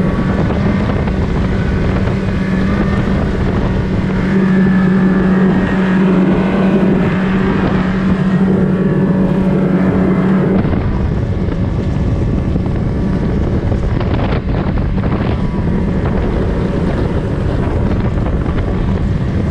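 Motorboat engine running with a steady drone, wind buffeting the microphone. About halfway through the drone drops away, leaving mostly wind noise.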